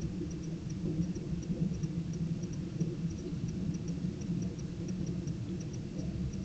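Night ambience: a steady low rumble with faint, short high-pitched ticks repeating about three to four times a second.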